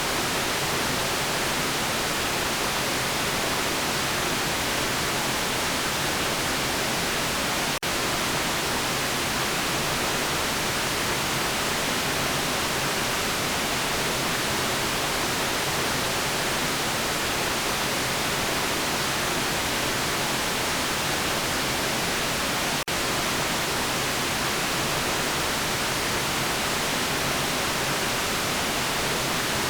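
Steady white noise: an even hiss across all pitches, briefly dropping out twice, about 8 and 23 seconds in.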